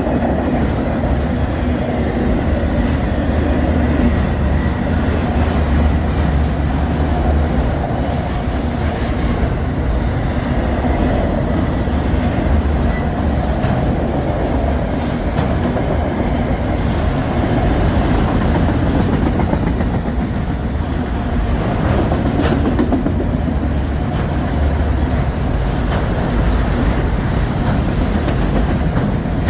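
Freight train cars rolling past on the track: a steady rumble with the clatter of wheels over the rails.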